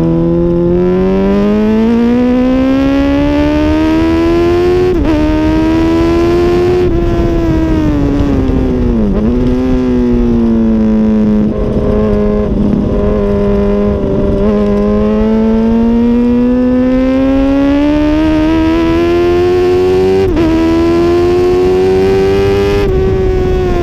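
2006 Honda CBR1000RR's inline-four engine at racing speed on track: the revs climb with brief breaks at the gear changes, dip sharply about nine seconds in, hold steady for several seconds through a long corner, then climb again and fall away near the end.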